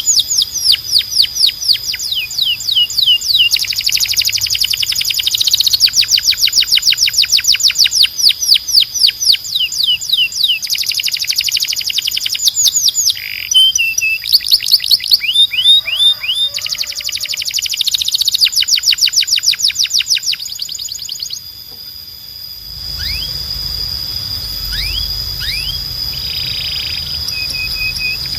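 Domestic canary singing: fast trills of rapidly repeated downward-sweeping notes in rolling phrases, with brief pauses between them. About 22 seconds in the song thins to a few separate sweeping notes over a low background hum.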